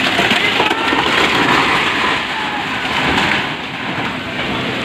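Steady rush of heavy rain falling.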